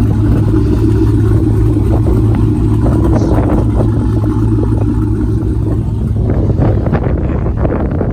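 Car engine and road noise heard inside a moving car's cabin: a steady low drone, growing rougher and noisier for the last couple of seconds.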